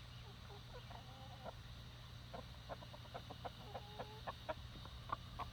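Domestic hens clucking softly: a string of short, faint clucks and a few brief low calls, coming more often toward the end.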